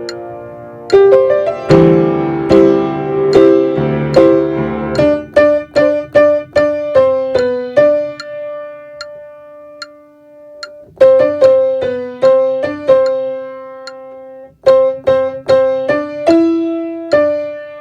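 Piano playing the tenor part of a praise song. Fuller chords sound for about the first five seconds, then it plays mostly one note at a time, with a long held note near the middle.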